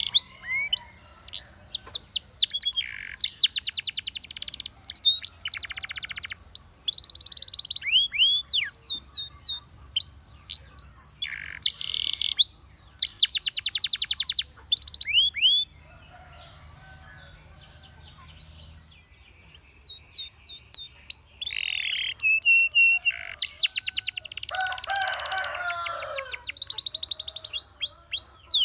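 Canary singing: phrases of quick sweeping chirps and fast rolling trills, with a pause of a few seconds about halfway through before the song resumes.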